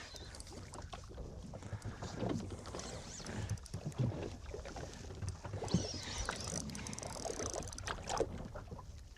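Ambient noise aboard a small fishing boat at sea: water and hull noise with scattered knocks and clicks of handling and movement.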